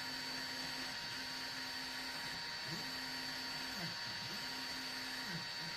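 EasyThreed K10 mini 3D printer printing: its stepper motors hold steady hums that break into quick pitch sweeps down and back up as the head changes direction, over a steady high whine. The machine is not loud.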